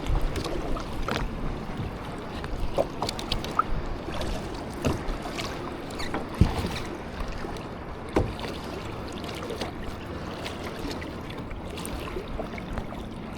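Kayak out on the lake: water splashing and lapping around the hull over a steady hiss, with a few short knocks against the boat scattered through.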